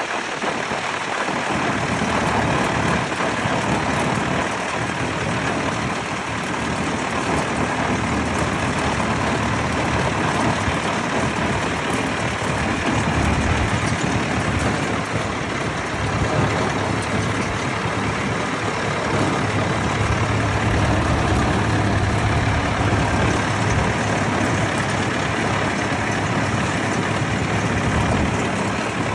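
Vintage tractor engines running, with a low engine drone that gets stronger about halfway through.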